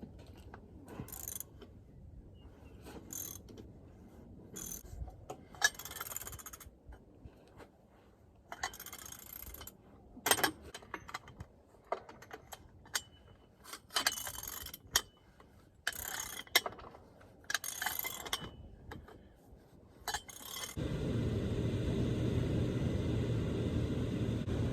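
Ratchet wrench clicking in short runs, with pauses between, as lug bolts are tightened on a tractor wheel. Near the end a steady low hum starts.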